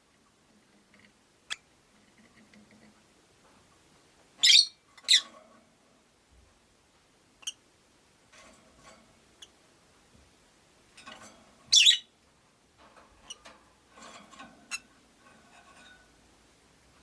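Rosy-faced lovebirds calling with short, sharp, high chirps: a loud pair about four and a half seconds in and another about twelve seconds in. Between them come brief clicks and quieter scratching and rustling.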